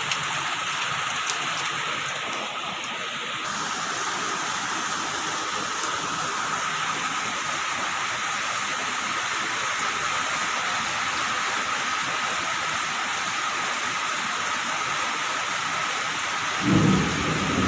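Heavy rain pouring steadily, with a low rumble of thunder near the end.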